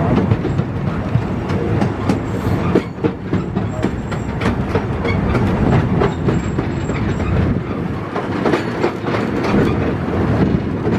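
Miniature railway train running along the track, a steady rumble with the wheels clicking and clattering over the rail joints.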